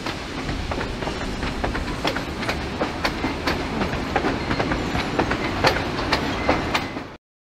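Passenger train rolling along the track, its wheels clicking irregularly over rail joints, several times a second, over a steady low rumble. The sound cuts off suddenly near the end.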